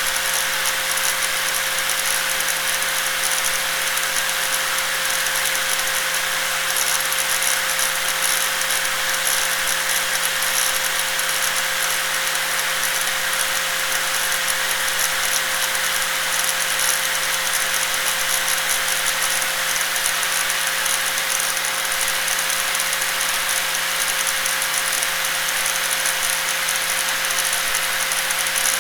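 Electric angle grinder running steadily: a constant whine over an even hiss, with no change in speed or load.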